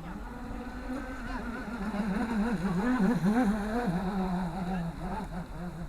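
Radio-controlled model boat's motor running, its pitch wavering up and down as the throttle changes. It grows louder toward the middle, then eases off.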